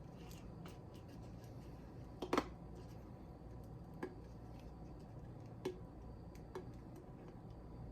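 Faint handling sounds of hands working at a covered beer bottle to uncover it: scattered small ticks and taps, the loudest a little over two seconds in.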